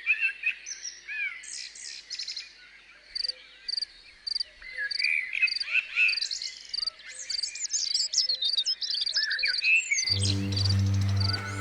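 Several songbirds singing and chirping together, with quick repeated chirps and warbled phrases. About ten seconds in, music with low steady tones starts abruptly.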